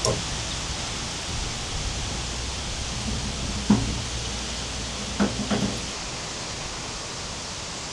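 A steady hiss of noise with a few short knocks in the middle, two of them close together.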